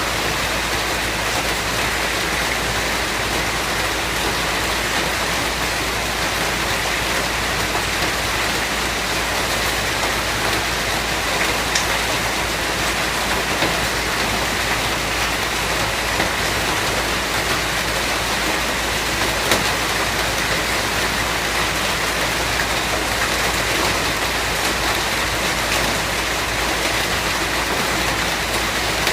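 Steady rain falling and pattering on a surface, an even hiss with a few scattered individual drop taps.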